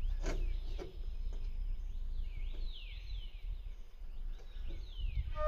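Birds calling with repeated high whistles, each sliding downward, over a steady low rumble.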